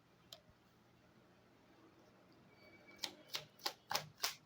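Deck of Lenormand cards being shuffled by hand: a quick run of faint, short card clicks about three a second, starting a little past halfway.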